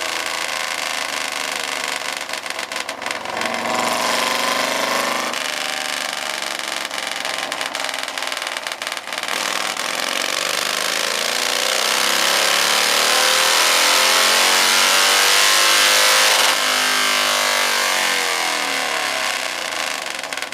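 Motorcycle engine on a chassis dyno making a wide-open-throttle run, its pitch climbing steadily as the revs build. About sixteen seconds in the throttle shuts and the revs fall away.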